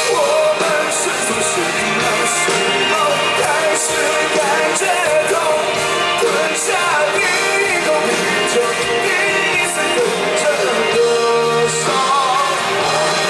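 Live rock band playing a song with a lead vocal over drums, cymbals and amplified guitars, heard through a handheld recording from the audience.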